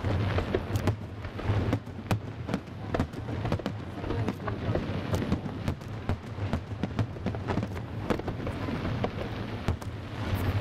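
Fireworks going off: a dense, irregular run of sharp bangs and crackles over a steady low rumble.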